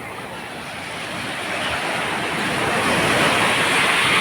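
Sea surf: a rushing hiss of waves that builds steadily louder, swelling to its peak about three seconds in.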